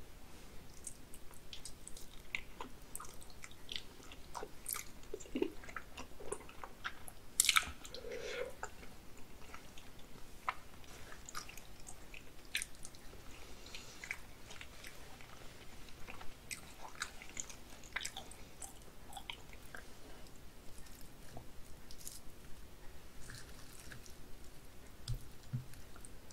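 Close-miked wet chewing of raw salmon sashimi: soft squishy mouth sounds with many small clicks and smacks, the loudest about seven and a half seconds in.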